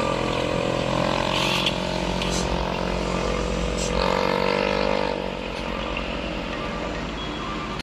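Truck engine running steadily, its pitch dipping and rising slightly about four seconds in, then a little quieter.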